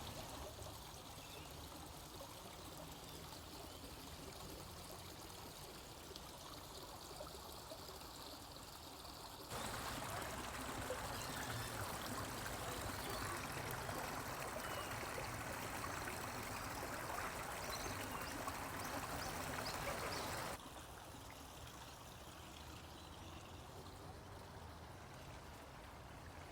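Steady running water, as of a garden stream or cascade. It jumps louder about a third of the way in, then drops back suddenly near two-thirds.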